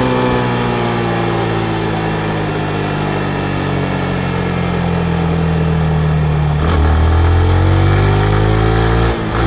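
2019 Yamaha MT-15's single-cylinder engine running on the road. Its note falls slowly as the bike slows, then about two-thirds of the way through the throttle opens and the note climbs, with a brief break near the end.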